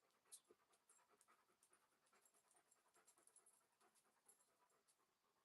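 Near silence with faint dog panting, from an Alaskan Malamute.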